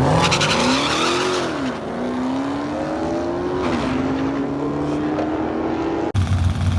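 A drag-racing vehicle's engine accelerating hard at wide-open throttle, its pitch climbing and then dropping twice as the transmission shifts up. Near the end the sound cuts abruptly to a deeper, steadier engine rumble.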